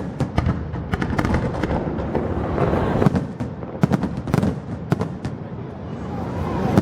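Fireworks display: a rapid string of sharp bangs and crackles over a steady low rumble, with the loudest bangs about three to four and a half seconds in.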